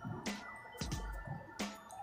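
Close-up mouth sounds of eating steamed siomai: wet chewing and lip-smacking, three distinct smacks, over faint background music.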